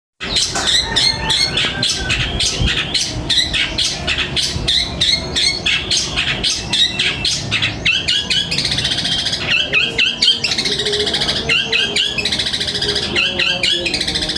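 Recorded small birds calling in a dense, rapid stream of sharp chirps and harsh squawks, with buzzing trilled phrases from about eight seconds in. This is a masteran track of gereja petir, kunti and tengkek calls, played to tutor a caged cendet (long-tailed shrike).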